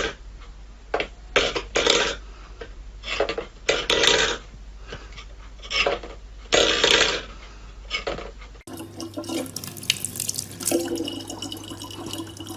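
Water splashing in irregular bursts, then after a sudden cut, water running over a steady low hum.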